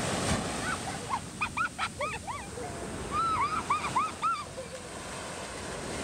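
A bird calling in two quick series of short, repeated rising-and-falling cries, over surf washing up the beach.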